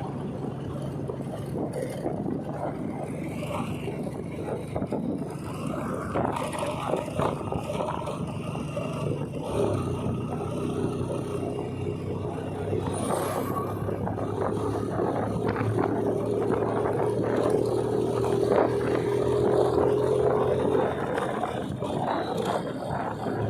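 Motorcycle engine running while riding, with rough wind and road noise on the microphone; about ten seconds in the engine settles into a steady, even note.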